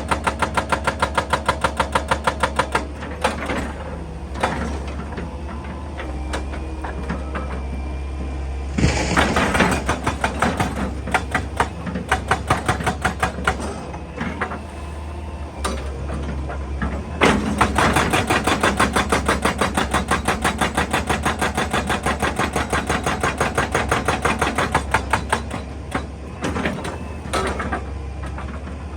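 Excavator-mounted hydraulic rock breaker hammering in fast, even blows, several a second, over a steady engine hum. The hammering stops about three seconds in and starts again around seventeen seconds. In between come irregular knocks and a loud burst of noise about nine seconds in.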